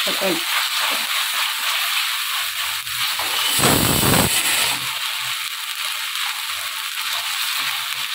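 Spices and ginger-garlic paste sizzling steadily in hot oil in a clay pot while they are tempered. About three and a half seconds in a louder rush of noise lasts under a second, and there is a sharp click just before it.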